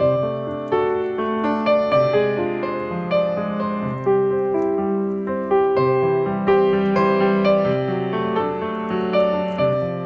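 Background piano music: a calm run of single notes and chords, each struck and then fading.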